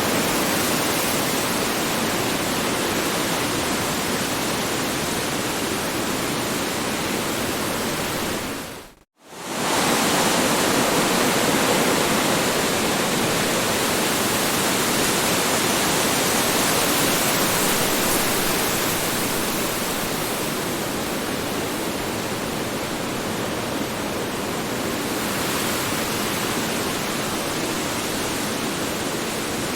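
Strong wind rushing steadily as a sound-effect recording. About nine seconds in it fades out abruptly to near silence for a moment and comes straight back at full strength, like a loop point in the recording.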